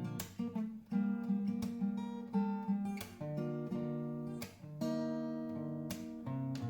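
Acoustic guitar music, strummed chords with plucked notes ringing between strokes.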